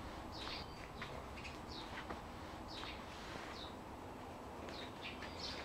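Faint, short, high-pitched bird chirps, several a second or so apart and irregular, over a low steady background hum.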